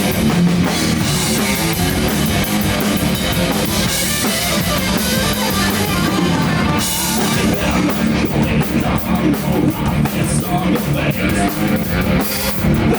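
Rock band playing: drum kit with cymbals and electric guitar, loud and continuous.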